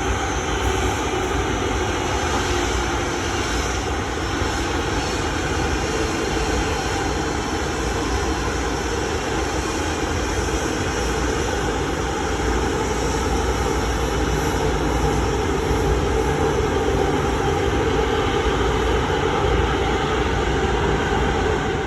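Airliner engines running, a steady loud noise that holds level throughout.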